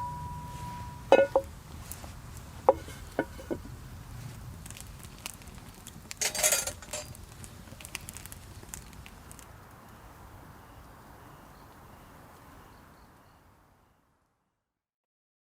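Clinks and knocks of camp cookware or tableware: a ringing clink at the start, then several sharp knocks in the first few seconds and a short rushing burst about six seconds in. The sound then fades out to silence near the end.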